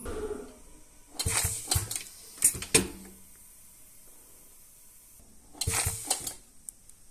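Small hard objects clattering and knocking in two short bursts, the second about three seconds after the first.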